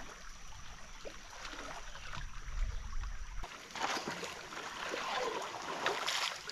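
Creek water running and gurgling around a floating boat, the rush of water getting louder about four seconds in.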